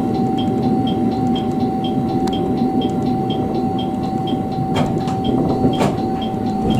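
Electric commuter train running, heard from inside: a steady rumble with a constant hum. A faint high beep repeats about twice a second, and two short clicks come near the end.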